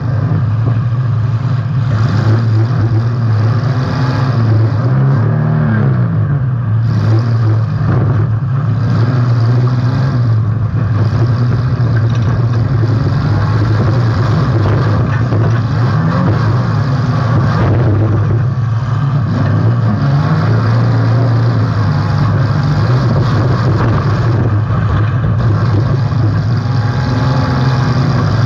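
Demolition derby car's engine running loud and hard, heard from a camera mounted on the car, with its pitch rising and falling in a few revs and scattered knocks from the car.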